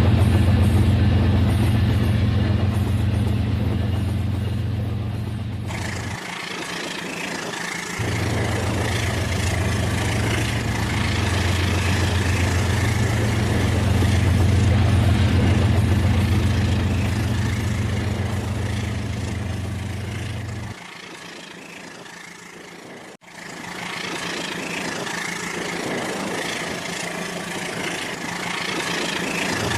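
Rail King toy train running on its track: a steady low motor hum with a rattling clatter of wheels on track. The hum drops out twice, for a couple of seconds about six seconds in and again for most of the last third, leaving only the clatter.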